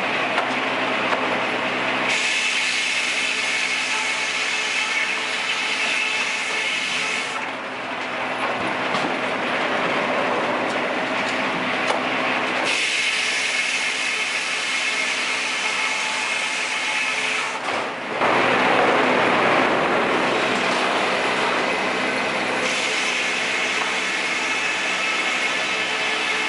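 Sawmill machinery running: a steady motor hum under a loud rushing mechanical noise that shifts abruptly every five seconds or so.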